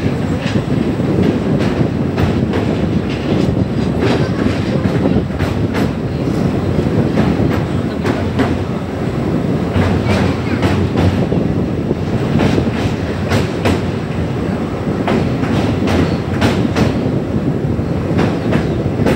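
Passenger train running over a steel truss bridge, heard from a coach window: a loud, steady rumble of wheels on the rails, broken by irregular clanks and clicks from the rail joints.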